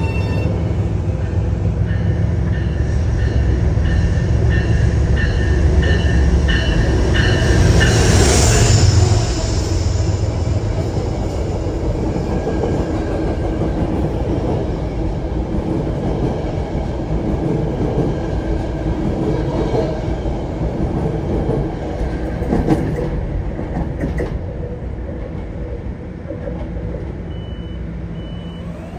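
Metro-North commuter train running past on the rails: a steady rumble and clatter of wheels with high-pitched wheel squeal, loudest about eight seconds in, then slowly fading.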